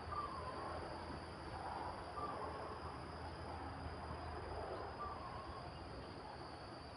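Wind blowing, a steady rushing noise, with a continuous high insect drone over it. Three brief chirps rise above it, spaced a couple of seconds apart.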